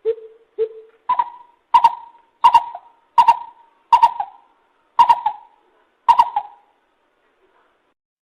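Lesser coucal calling: two low hoots, then a series of seven higher hoots spaced a little under a second apart and slowing slightly. The series stops well before the end.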